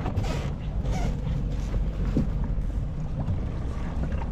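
Steady wind rumble on the microphone aboard a fishing boat, with a few faint knocks.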